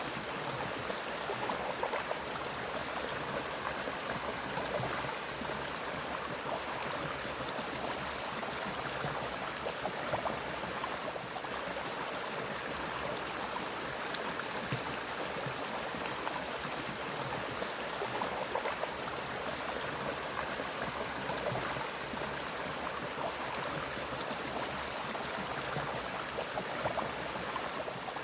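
Mountain stream flowing steadily through forest, with a constant high-pitched drone over the water.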